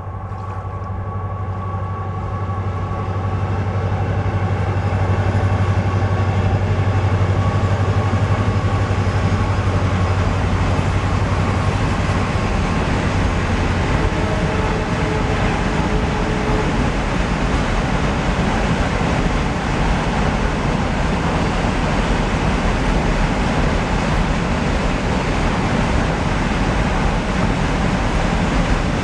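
A WDG4 diesel-electric locomotive hauling a Ro-Ro freight train across a river viaduct. Its 16-cylinder two-stroke engine drone builds over the first few seconds and dominates for about twelve seconds. It then gives way to a steady rolling rumble of the wagons carrying lorries.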